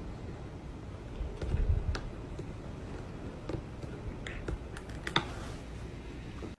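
Scattered light clicks and taps at irregular intervals over a steady low background noise, with a short low thud about two seconds in.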